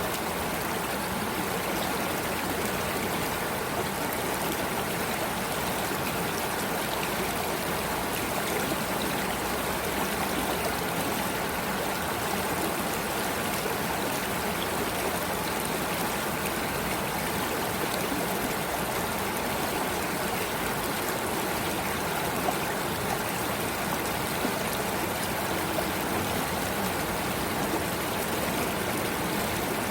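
Running water of a stream, a steady even rush with no break.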